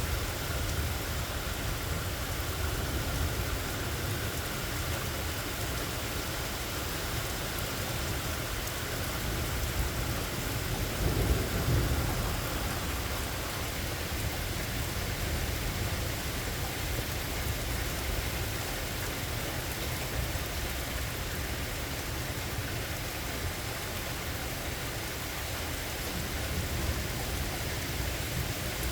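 Steady rain falling, with low thunder rumbling underneath that swells briefly about a third of the way through.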